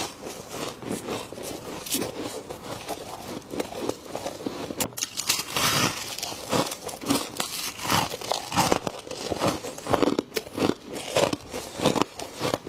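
Frost being bitten and chewed close to the microphone: a run of irregular, crisp crunches, several a second.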